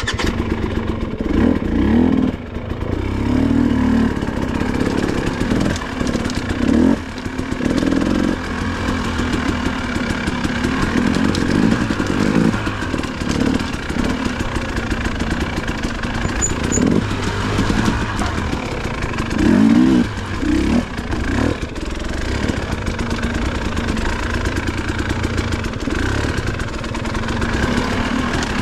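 Dirt bike engine running throughout, the throttle blipped so the revs rise and fall every few seconds.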